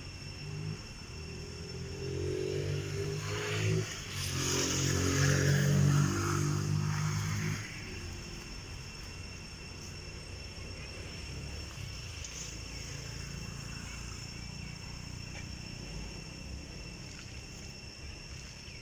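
A motor vehicle engine running for several seconds, rising in level with a brief dip about four seconds in, then cutting off suddenly near the middle.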